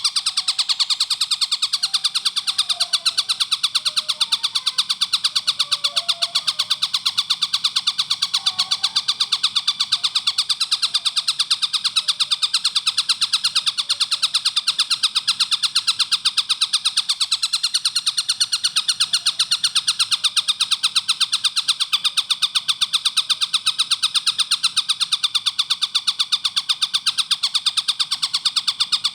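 Tengkek buto kingfisher giving its fast rattling call: sharp notes repeated many times a second in an unbroken, even stream.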